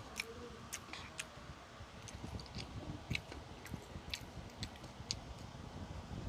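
A person chewing food, with irregular small clicks and ticks scattered throughout.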